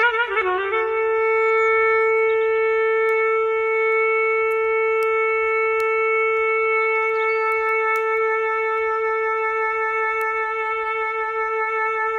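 Clarinet holding one long steady note, entering suddenly with a brief dip in pitch and taking on a slight waver toward the end.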